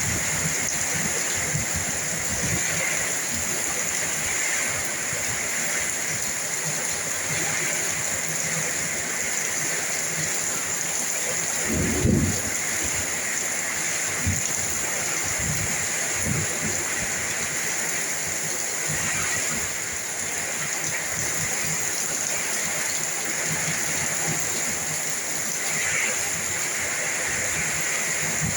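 Heavy rain falling in strong wind, a steady dense hiss, with a brief low thump about halfway through.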